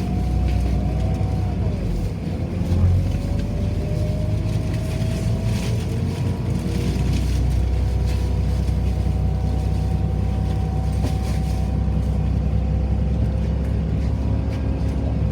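City bus in motion, heard from inside the cabin: a steady low rumble of the drive and road, with a whine that slowly rises in pitch and then holds steady.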